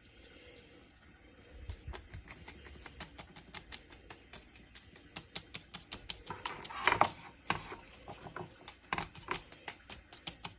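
A homemade leaf paintbrush dabbing and brushing paint onto paper: a quick, irregular run of soft taps and rustles, several a second, loudest about seven seconds in.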